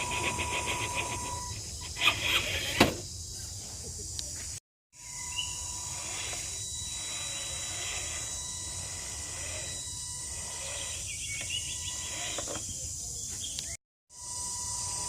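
Outdoor background noise with a steady high hiss, and a few sharp knocks about two to three seconds in. The sound cuts out to silence twice, briefly.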